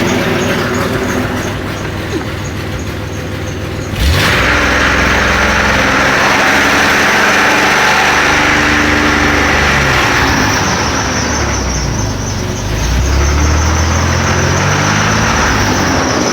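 Car engine running during a Seafoam treatment that is burning carbon out of it, revved up sharply about four seconds in and held at higher speed, then easing off and picking up again near the end.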